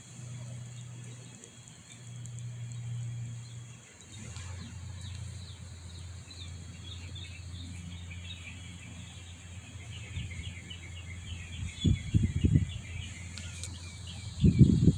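Small birds chirping in quick, repeated short notes over a steady low hum. Two bursts of loud low rumble come in, about twelve seconds in and again at the very end.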